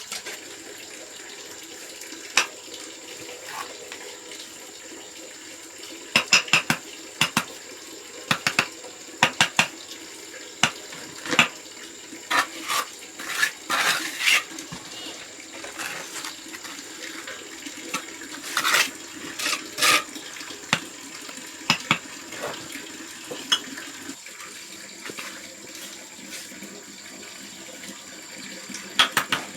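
Steady running-water hiss, with a long run of sharp, irregular clinks and scrapes through the middle that are the loudest sounds.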